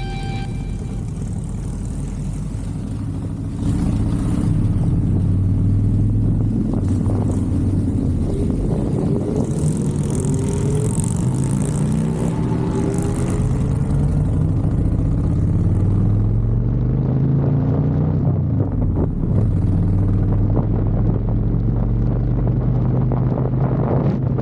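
Motorcycle engine running while riding, its pitch repeatedly rising and falling as it accelerates and changes speed. It gets louder about three and a half seconds in.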